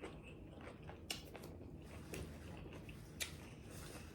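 Close-up chewing and biting of food, with a few faint crisp clicks and crunches, the most distinct about three seconds in.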